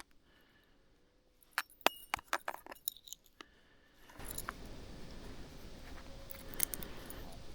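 A quick run of small, sharp clinks, like hard objects knocking together, about a second and a half in. From about four seconds in, a steady rushing noise starts, with a few more clicks over it.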